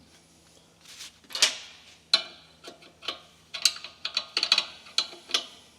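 Metal hand tools, wrenches on a tubing fitting, clinking and clicking in an irregular run of sharp taps. A faint low hum stops about two seconds in.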